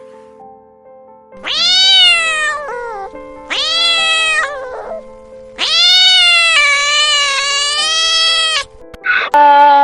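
A cat meowing loudly three times in long drawn-out calls that rise and fall in pitch, the last held about three seconds, over background music.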